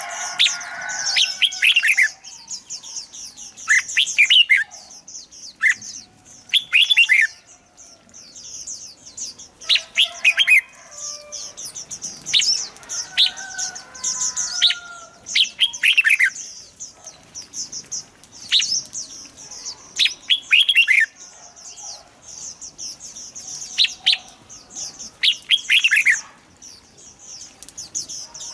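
Red-whiskered bulbuls singing: short, bright phrases of falling notes repeat every second or two over a steady high twittering. This is the kind of recording played to stir caged bulbuls into song.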